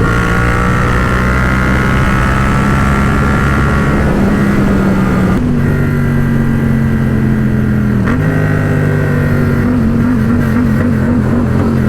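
Yamaha FZ-07 parallel-twin engine running steadily at speed. Its note steps to a new pitch about five and a half seconds in and again around eight seconds, and wavers briefly near the end.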